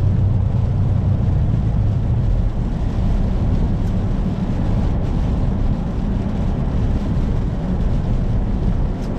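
Steady low drone of a Kenworth semi-truck's diesel engine and tyre noise, heard from inside the cab while cruising on the highway.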